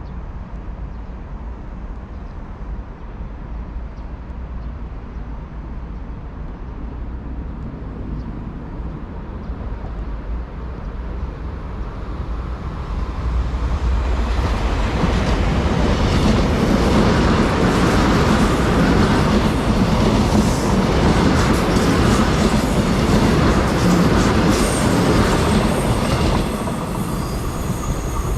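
A train passing on the track: rail noise builds about halfway through, stays loud for roughly twelve seconds with a run of short clicks, then drops off shortly before the end.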